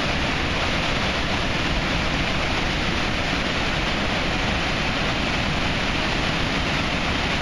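Floodwater from a swollen creek pouring over a dam waterfall: a steady, unbroken rushing roar.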